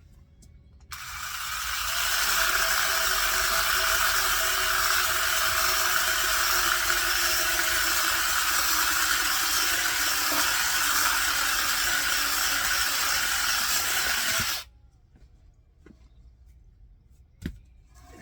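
Power saw cutting through oak firewood. It starts about a second in, runs steadily for about thirteen seconds with a rough hiss, then stops suddenly.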